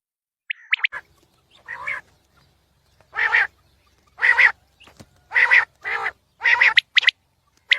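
Quail (batair) calling: a run of harsh, rasping calls about one a second, with short, sharp high notes about half a second in and again near the end.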